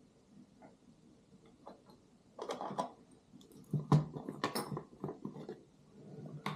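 Peppercorns clicking and rattling as they are poured into a wooden peppermill, in a few short bursts after about two seconds.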